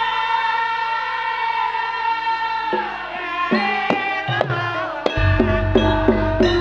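Live Javanese band music: a held chord, then from about three seconds in short plucked notes and hand-drum strokes, with a bass line coming in about five seconds in.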